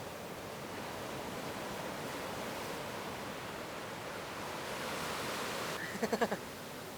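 Steady wash of ocean surf, swelling slightly about five seconds in, with a brief shout near the end.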